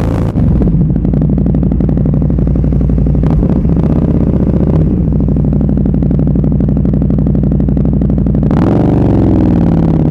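Motorcycle engine through an SC-Project aftermarket exhaust, running at steady revs with two brief breaks, about three and a half and five seconds in. Near the end the revs drop and then climb again.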